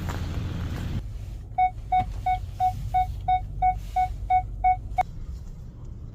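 Car's warning chime beeping about ten times, roughly three beeps a second, and stopping at a sharp click. A steady rush of noise drops away about a second in.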